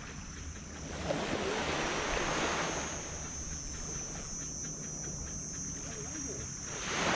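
Ocean waves breaking on a beach: one wash of surf swells about a second in and fades after a couple of seconds, and the next wave breaks near the end.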